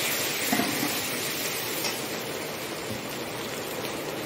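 Chopped onions and tomatoes sizzling steadily in hot oil in a kadhai. A steel ladle stirs and scrapes the pan briefly about half a second in.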